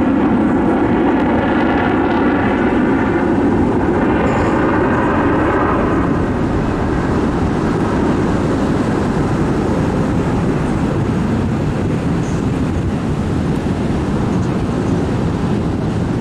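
Loud aircraft engine noise from a fly-by: a layered whine in the first six seconds that gives way to a broad, steady rumble, easing slightly toward the end.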